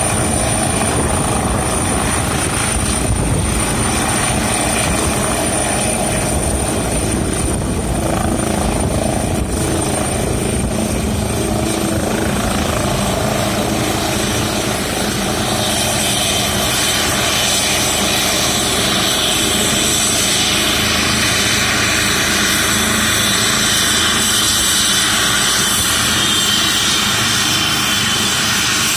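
Airbus H135 twin-turbine helicopter running close by, a steady loud rotor and engine noise. About halfway through, a high turbine whine grows stronger.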